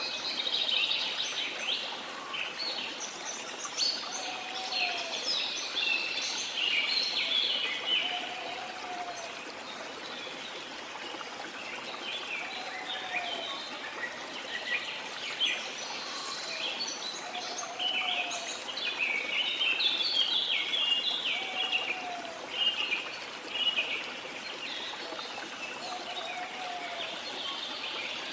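Tropical rainforest waterfall ambience: a steady rush of falling water under busy bird chirping and trilling, with a short low call repeating about every four seconds.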